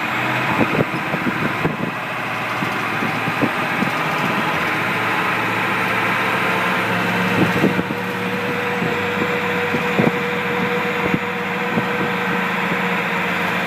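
Monster truck engine running steadily, with occasional knocks and rattles.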